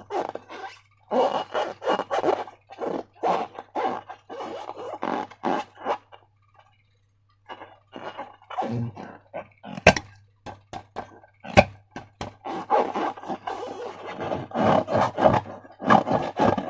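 Slime squelching and squishing in irregular wet bursts as it is squeezed and worked by hand, with a few sharp clicks in the second half.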